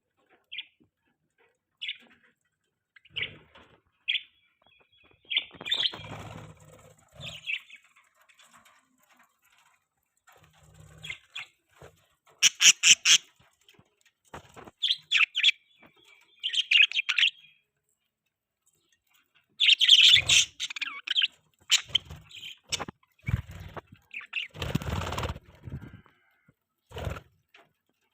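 Pet budgerigars chirping and chattering in short, sharp bursts with quiet gaps between them. Twice, a longer rustling burst stands out, about six seconds in and again near the end.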